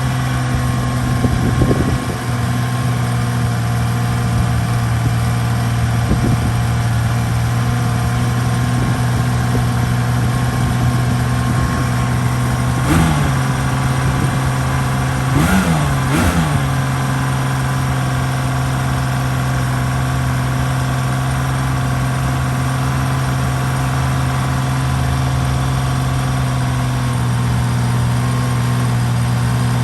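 1982 Honda CBX's air-cooled inline-six engine idling steadily after a cold start. Its throttle is blipped three times in the middle, the last two close together.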